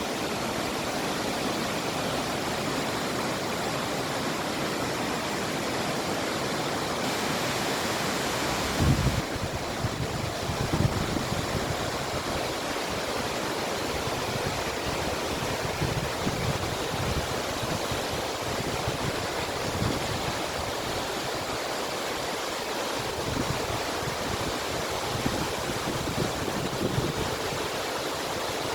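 Waterfall: a steady rush of falling water. From about nine seconds in, irregular low thumps and rumbles come and go over it.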